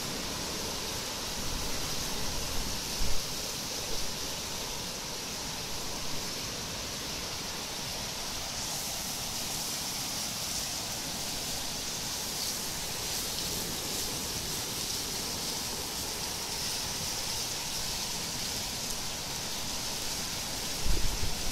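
Torrential rain pouring down in a steady hiss of water, with a couple of brief low thumps about three seconds in and near the end.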